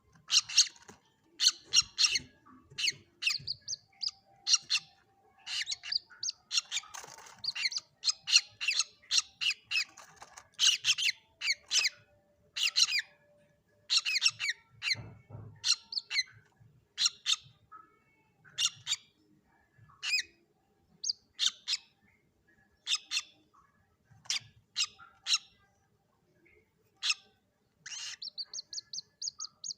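Common moorhen chicks calling: short, high calls repeated in irregular clusters, ending in a quick run of closely spaced calls.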